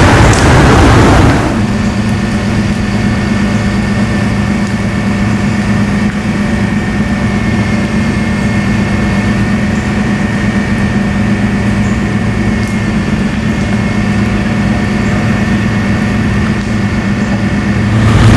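Large vehicle engine idling steadily, an even low hum with a faint high whine above it. A loud rushing noise covers the first second and a half and cuts off, and comes back right at the end.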